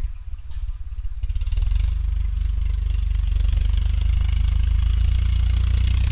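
An engine running steadily with a low, evenly pulsing rumble that grows louder about a second and a half in.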